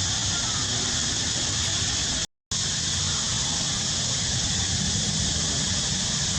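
Steady background noise with a strong high hiss and a low hum underneath, cut off completely for a moment a little over two seconds in.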